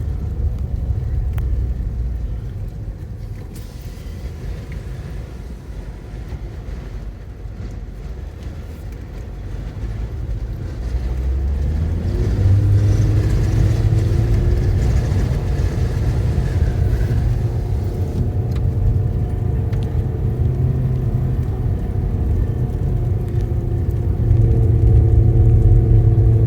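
Car engine and road noise from a moving vehicle, with a low rumble throughout. About halfway through the engine note rises and grows louder as the car speeds up, then holds steady.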